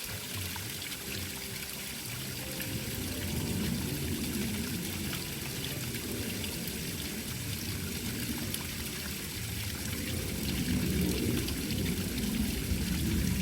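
Water running and splashing steadily, swelling a little at times.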